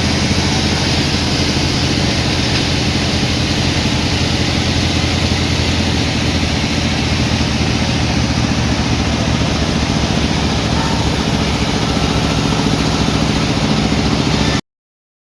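Sawmill machinery engine running steadily at a constant speed with a fast, even pulsing, then cutting off suddenly near the end.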